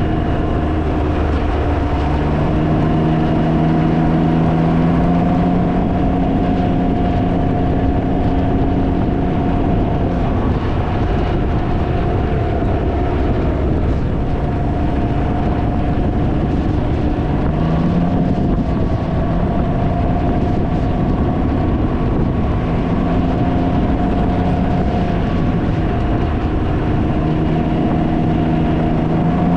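Can-Am Ryker three-wheeler riding along, its engine note shifting pitch several times as it speeds up and slows, under heavy wind noise buffeting the microphone.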